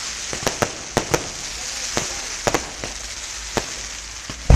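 Fireworks going off: about a dozen irregular sharp pops over a steady hiss, then one loud, deeper bang near the end.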